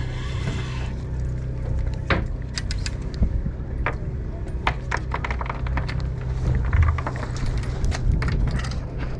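Steady low drone of a boat's engine, with scattered sharp clicks and knocks from about two seconds in.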